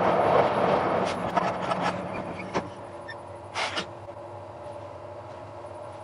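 Small-gauge passenger train rolling and coming to a stop: wheel-on-rail running noise with a few clacks fades away over the first two to three seconds. A short hiss comes about three and a half seconds in, then a steady low hum from the standing train.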